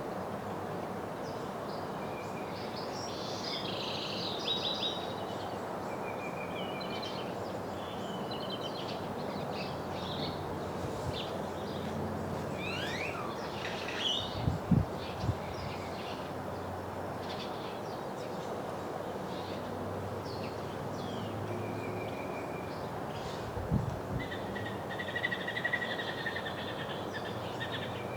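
Small birds chirping and trilling in short scattered calls over a steady background hiss. Brief low thumps stand out about halfway through and again near the end.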